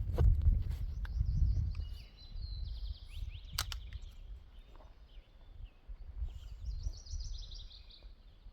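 Small birds chirping and trilling in rapid repeated notes in a forest, over an uneven low rumble of wind or handling on the microphone. A sharp click about three and a half seconds in.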